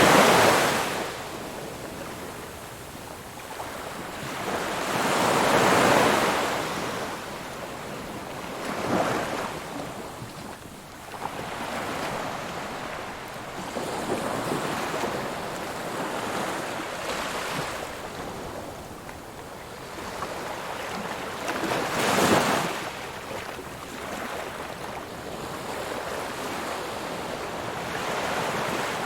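Ocean waves breaking on a shore, a steady wash of surf with separate waves swelling and crashing: right at the start, about six seconds in, and the loudest about twenty-two seconds in.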